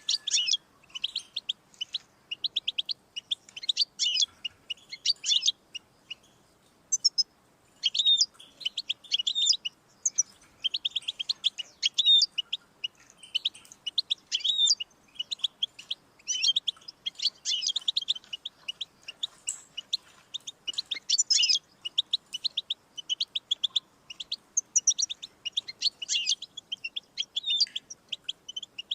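European goldfinch singing: fast twittering trills and chirps, high in pitch, in phrases of a few seconds broken by short pauses.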